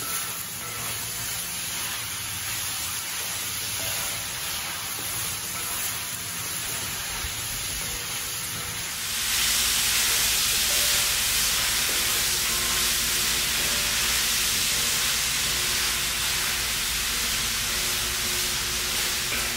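Sliced bell peppers and onions sizzling in oil in a discada (plow-disc pan) over a gas burner while being stirred with a wooden spatula: a steady frying hiss that gets louder and brighter about nine seconds in.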